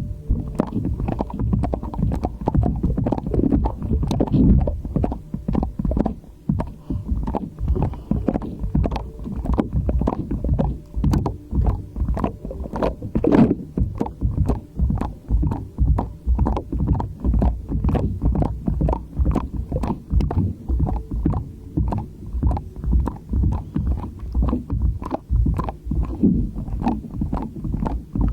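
Slime being squeezed and pressed by hand, making a steady run of wet, sticky squelches and small pops, about two a second.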